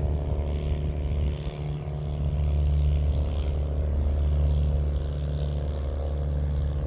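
An engine running steadily nearby: a low, even drone with a hiss above it.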